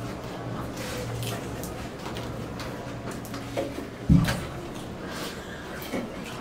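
Potato chips crunching and being chewed, heard as scattered short crackles over a low steady hum, with one loud low thump about four seconds in.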